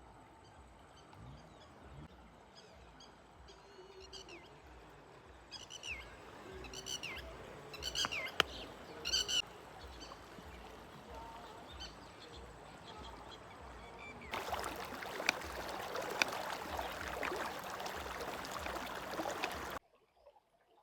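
Birds chirping in a run of short, falling calls over a steady background hiss. Near the end a dense crackling noise sets in for several seconds, then all sound cuts off suddenly.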